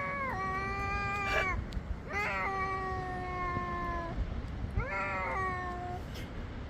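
A cat meowing in long, drawn-out calls, three in all, each rising at the start and then held for one to two seconds.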